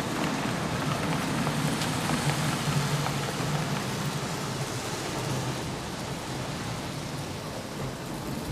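HO-scale model trains running on the layout: a steady rolling rumble and hiss of metal wheels on the track with a low motor hum, easing off slightly over the second half.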